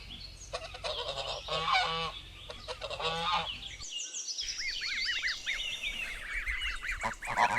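Geese honking in a series of harsh calls. After a short break about four seconds in, many high, arching peeping calls go on, with a few more honks near the end.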